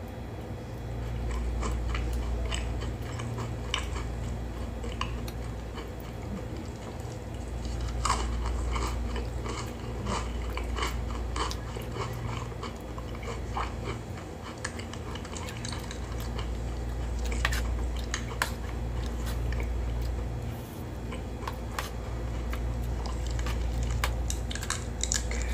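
Close-miked eating: chewing with many short wet mouth clicks and smacks as hot dog and noodles are bitten and eaten, over a steady low hum.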